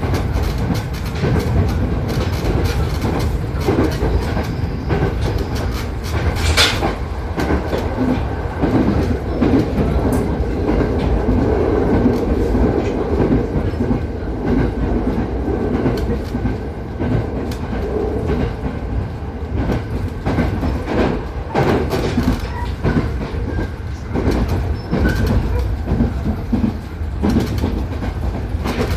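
JR East 209 series electric commuter train running at speed, heard inside the passenger car: a steady rumble of wheels on the track with the clickety-clack of rail joints, and one sharper click about six and a half seconds in.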